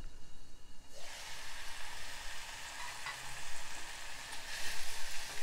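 Tender tamarind leaves with peanuts and green chillies frying in oil in a steel kadai: a steady sizzle that comes up suddenly about a second in as the lid comes off. The added water has cooked off, so the mixture is now frying dry.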